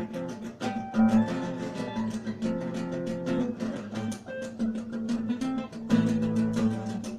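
Acoustic guitar music: quick plucked and strummed notes in a steady run.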